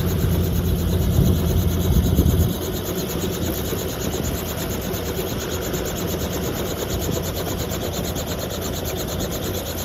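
Helicopter running, a steady noise with a fast, even pulsing; a heavy low rumble drops away about two and a half seconds in.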